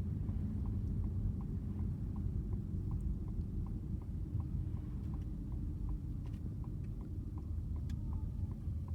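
Car turn signal clicking steadily, about two to three ticks a second, over the low rumble of the car's cabin.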